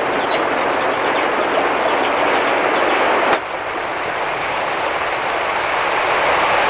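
Heavy rain pouring down in a steady, dense hiss of countless drops. The level drops abruptly about three and a half seconds in, then builds back up.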